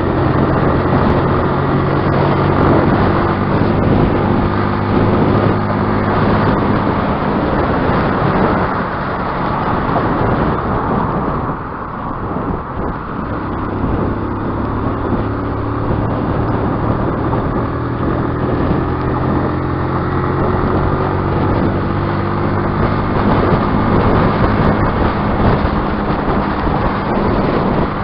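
Stels Flame 200 motorcycle's single-cylinder engine running under way with air rushing past. The engine eases off about eleven seconds in, then its pitch climbs again as it accelerates.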